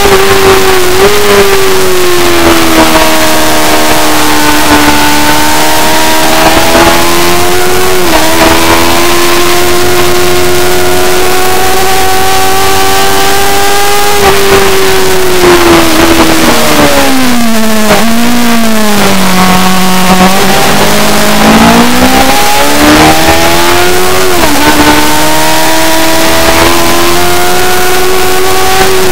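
Superbike engine at high revs on a racing circuit, the note held fairly steady with short dips at gear changes. About two-thirds of the way through, the revs fall well down as the bike slows, then climb back up under acceleration.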